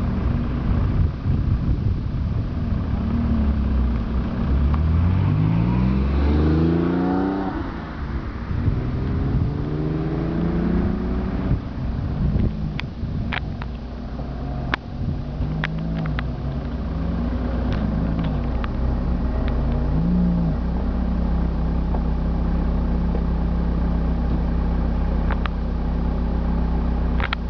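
Car engines running, with one accelerating in rising sweeps of pitch about a quarter of the way in and again shortly after. A few sharp clicks come through midway, and a steady engine note settles over the last quarter.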